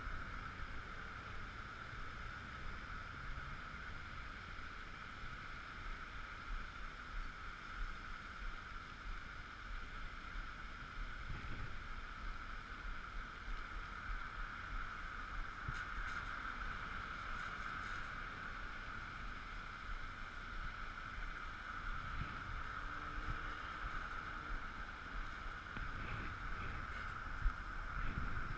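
Ekoway ML5000 electric vehicle under way: a steady high whine over a low rumble of wind and road noise.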